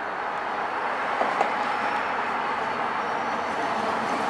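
MBTA commuter train, an EMD F40PH-type diesel locomotive hauling bi-level coaches, running through yard switches: a steady rumble of engine and wheels that grows slightly louder as it approaches, with a couple of sharp clicks about a second in.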